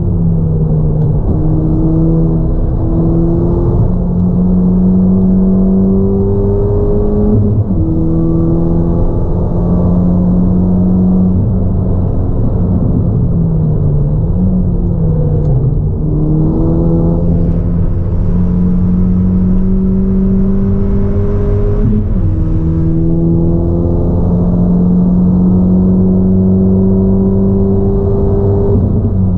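Ford Fiesta ST180's turbocharged 1.6-litre four-cylinder, fitted with a 3-inch Gravity Performance exhaust and ITG intake, heard from inside the cabin while lapping a track. The engine note climbs gently and drops back several times, and wavers up and down for a few seconds near the middle.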